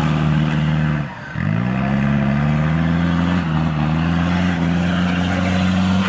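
Off-road 4x4 race car's engine running hard under load. About a second in, the note briefly drops away, then climbs back up in pitch and holds steady.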